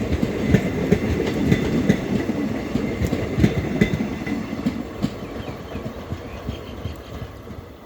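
Train wheels clattering over rail joints as the train rolls past, the clatter fading away in the second half.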